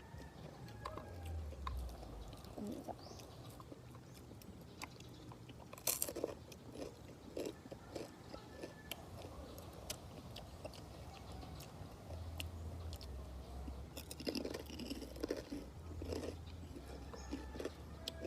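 A person chewing food with the mouth close to the mic, with bursts of crunchy bites about a third of the way in and again near the end.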